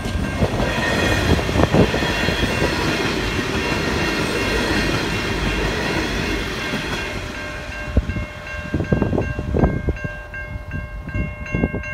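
V/Line Sprinter diesel railcars running past at speed, a loud rushing rumble that fades as the train moves away about halfway through. The level crossing's warning bells ring in a quick, even pulse, heard plainly once the train noise drops.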